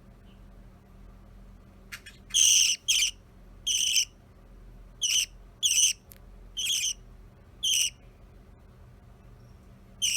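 Budgerigar calling in a run of short, sharp chirps, about eight in six seconds, each on much the same pitch.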